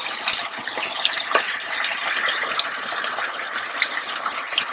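Chicken and vegetable stir fry sizzling in sauce in a nonstick electric skillet: a steady hiss with many small crackles and pops.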